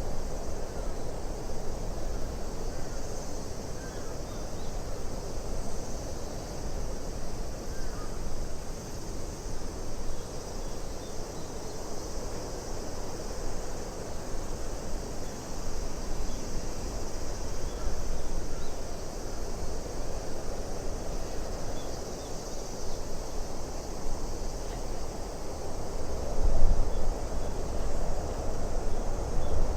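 Steady wind ambience with a gusting low rumble and a constant high hiss, with a few faint short chirps here and there.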